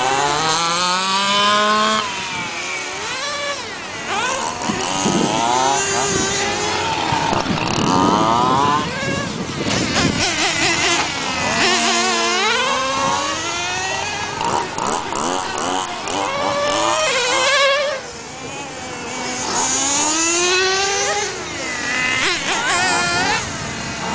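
Small two-stroke petrol engines of 1:5-scale FG radio-controlled trucks revving up and down as they are driven around a track. Several engines overlap, each pitch rising and falling with the throttle.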